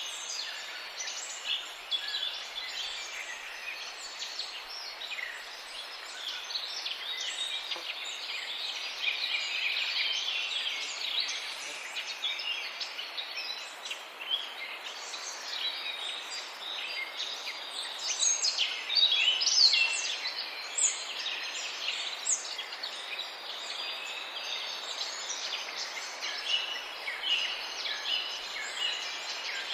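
Many birds chirping and calling at once in a dense, continuous chorus of short high calls.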